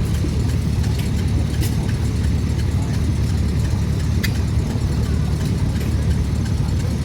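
An engine running steadily at an even speed, a low rumble with a few faint clicks over it.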